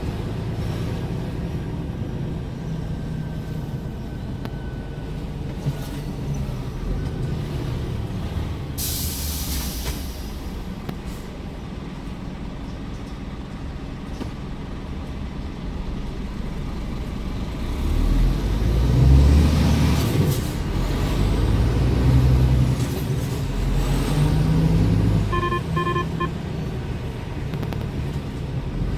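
Scania R410 semi-truck's diesel engine running on the road, with a sharp hiss of air from the brakes for about a second early on. About two-thirds of the way through, the engine pulls harder for several seconds, and a short series of electronic beeps sounds near the end.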